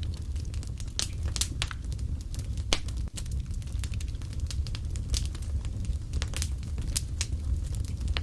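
Fireplace fire crackling, with irregular sharp pops over a steady low rumble of flames; one pop nearly three seconds in stands out as the loudest.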